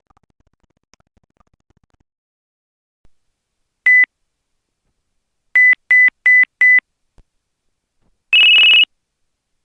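Electronic tones from an LG VX8350 cell phone: one pure beep, then four short quick beeps at the same pitch, then a brief warbling trill of two rapidly alternating higher tones near the end.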